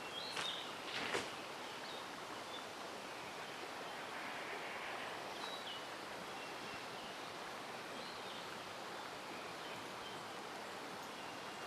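Mountain stream flowing steadily, with faint short bird chirps now and then. Two sharp clicks in the first second or so.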